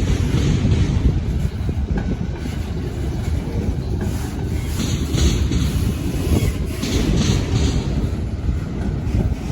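Train on the move: a steady, loud low rumble.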